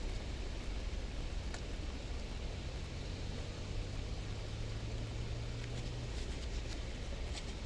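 Steady background noise with a faint low hum from about two and a half to six seconds in, and a couple of faint clicks.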